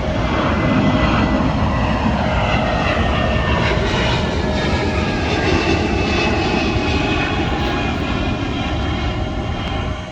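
Jet airliner's engines going by loud and close, a steady roar with a whine that slides down in pitch as the plane passes.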